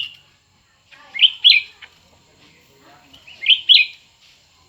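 Cucak ranting songbirds calling: two bursts of sharp, quick chirping notes about two seconds apart.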